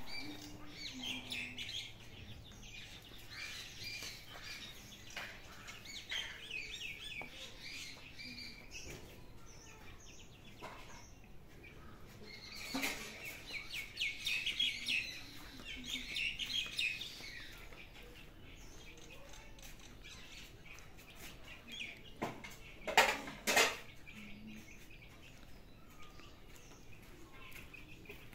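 Small birds chirping in quick, repeated bursts, with a few sharp knocks about 22 to 24 seconds in, the loudest of them near 23 seconds.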